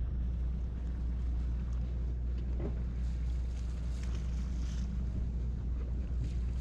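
A sportfishing boat's engine running with a steady low drone, with wind on the microphone.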